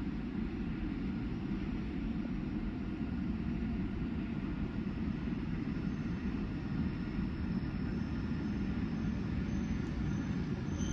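Shinkansen train pulling into the station: a steady low rumble of the train's running, with a faint high-pitched brake squeal setting in about halfway through and growing toward the end.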